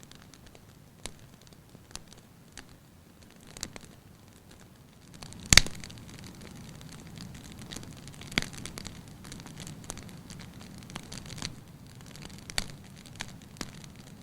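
Wood fire burning in a fireplace, crackling with scattered sharp pops. The loudest pop comes about five and a half seconds in, as the low rush of the flames grows louder.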